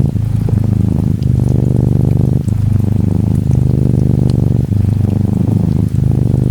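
Norwegian Forest Cat kitten purring close up, a steady low buzz that dips briefly about every second and a quarter as it breathes in and out. Gentle rain patters faintly behind it.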